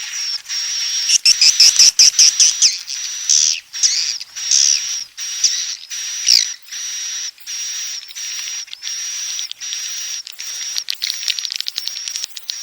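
Swiftlet lure call of edible-nest swiftlets: high twittering chirps over a steady high-pitched note that keeps breaking into short pulses, busiest over the first few seconds with a quick falling chirp about halfway. Near the end the pulses speed up into a fast run of ticks. It is the roosting call played in swiftlet houses to draw the birds in to nest.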